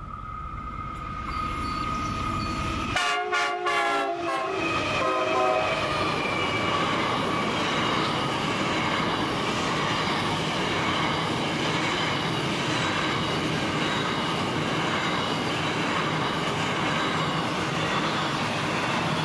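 Two Pacific National NR-class diesel-electric locomotives approach at the head of a container freight train and sound their horn in several short blasts about three seconds in, the pitch dropping as they pass. The container wagons then roll by steadily with a clickety-clack from the wheels over the rail joints.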